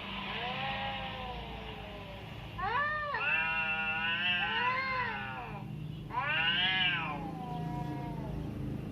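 Cat meowing: a faint arched call at the start, then a long, wavering meow about three seconds in, and another rising-and-falling meow about six seconds in.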